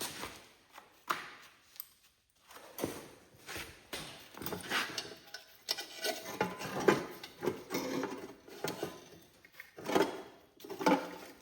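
Hand work with bungee cords, wiring and loose parts: an irregular run of light clicks, knocks, rattles and rubbing as the cords are stretched and hooked.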